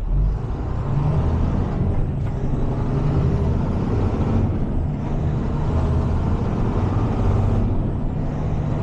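Heavy tow truck's diesel engine running steadily while driving, with road noise, heard from inside the cab.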